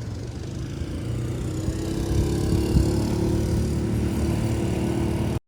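An engine running steadily with a low rumble and a steady hum that joins about a second and a half in; the sound cuts off abruptly near the end.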